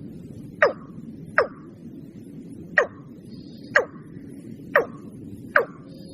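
Watercock giving a series of short, sharp calls, each one dropping quickly in pitch, six in all at uneven intervals about a second apart, over a low steady hiss.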